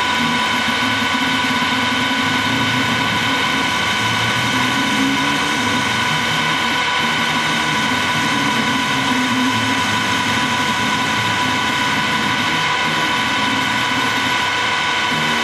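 Harrison T280 CNC-converted lathe running steadily, a constant machine hum with a steady high whine over it.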